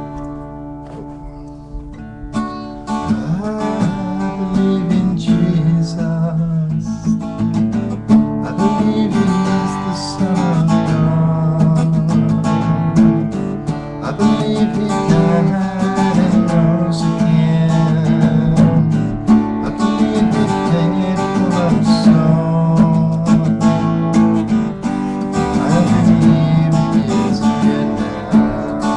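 Acoustic guitar music: strummed chords at a steady pace, with held notes ringing between the strokes.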